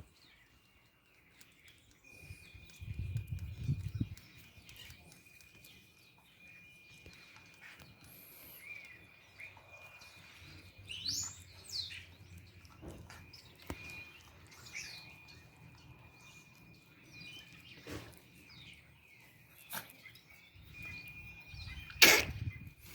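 Small birds chirping now and then over a thin, steady high-pitched tone, with a few scattered knocks, the loudest near the end.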